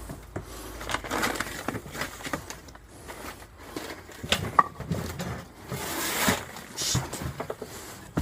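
Junk being handled and moved: irregular knocks, clatter and rustling, the loudest a sharp knock about halfway through.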